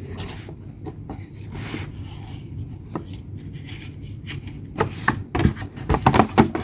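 Hands handling hair dryer attachments and their packaging: quiet rubbing at first, then a run of sharp knocks and clatter in the last second and a half.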